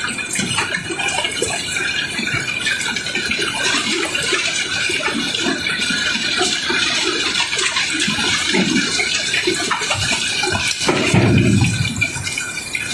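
Masses of cobblestones pouring and tumbling as they are unloaded: a continuous rattling clatter of many rocks knocking together, with a heavier, louder rumble about eleven seconds in.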